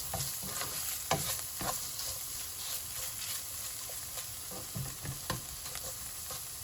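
Chopped vegetables sizzling in hot oil in a pan on high heat, stir-fried with a spatula that scrapes and knocks against the pan every second or so.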